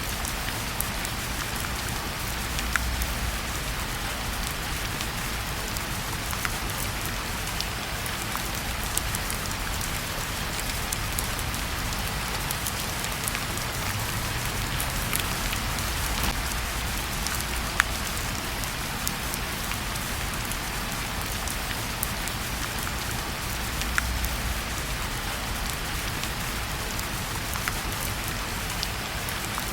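Steady rain mixed with a wood fire in a fireplace: an even hiss with scattered sharp ticks and pops, and a few soft low rumbles swelling now and then.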